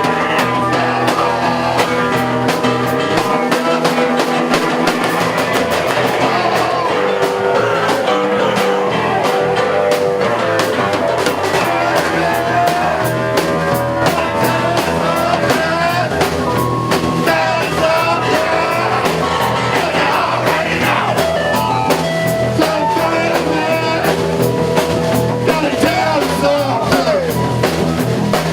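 Live rock band playing loud and steady, with electric guitar and a drum kit keeping a regular beat.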